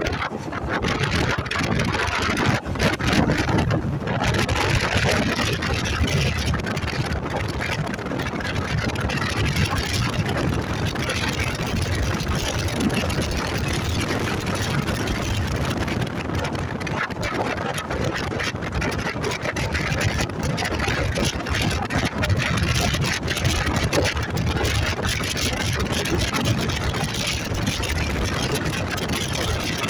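Motorcycle riding steadily, its engine running under a constant rush of wind and road noise.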